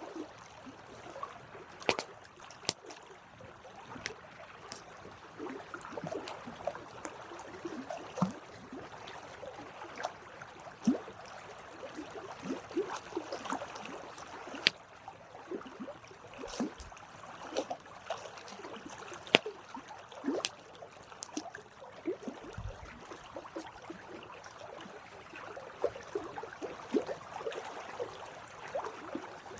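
Wood campfire burning, crackling: irregular sharp pops and snaps over a steady soft hiss and fizzing.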